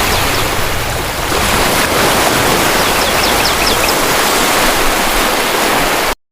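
Steady rushing sound of ocean surf, with a few faint, short, high chirps about a third of a second in and again at around three seconds. It cuts off suddenly near the end.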